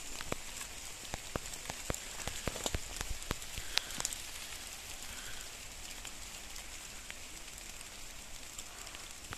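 Rain falling: a steady soft hiss with scattered sharp ticks of drops, thickest in the first few seconds.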